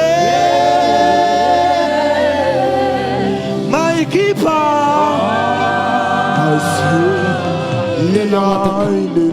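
Gospel worship singing, several voices together, holding long notes of about two seconds each with accompaniment.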